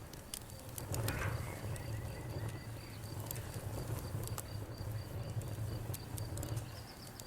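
Wood fire burning in a fireplace: irregular sharp crackles and pops over a steady low rumble of the flames, with a brief swell about a second in. A faint high pulsing tone runs underneath.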